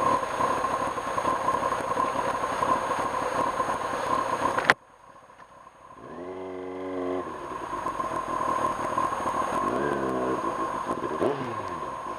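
Kawasaki Ninja ZX-6R motorcycle on the move: steady wind and road rush with a constant whine, which cuts off abruptly with a click a little before halfway. After a brief lull the engine note comes through, holding one pitch for about a second, then sweeping up and down in pitch near the end as the rushing noise builds again.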